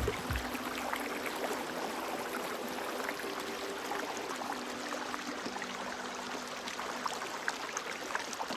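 Wood campfire crackling: irregular small pops and snaps over a steady hiss.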